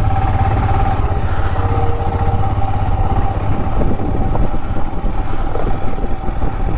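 Royal Enfield Himalayan's single-cylinder engine running steadily, a fast even low-pitched thudding.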